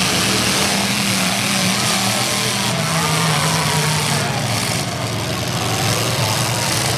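Demolition derby car engines running loudly and steadily, a continuous low drone under a dense din.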